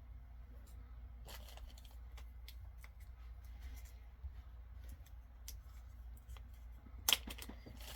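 Small clicks and brief rustles of pins and their packaging being handled, with one sharper click about seven seconds in.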